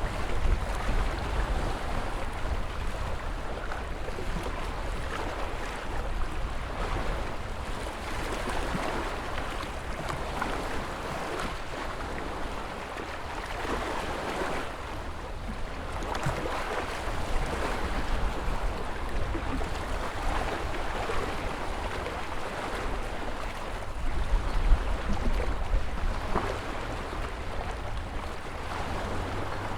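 Ocean waves washing onto shore in a continuous surf noise that swells and eases every few seconds, with a deep low rumble underneath. A louder surge comes near the end.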